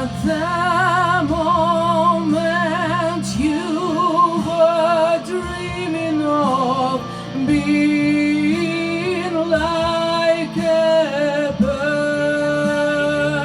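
Wordless vocalise: a singer holding and gliding between long notes with wide vibrato, over instrumental backing.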